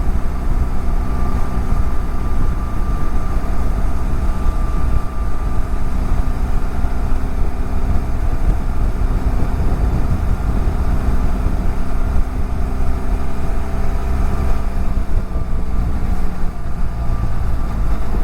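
BMW F700GS parallel-twin motorcycle engine running at a steady cruise, with a constant hum and steady wind rush on a helmet-mounted camera.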